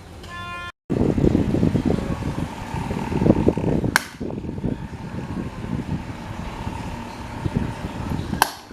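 Restored electric table fan running, its air stream buffeting the microphone with a dense, steady rush and a faint steady hum, broken by two brief sharp clicks about four seconds apart.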